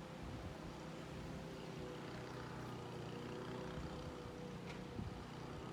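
A steady low motor hum over a faint, even rushing noise.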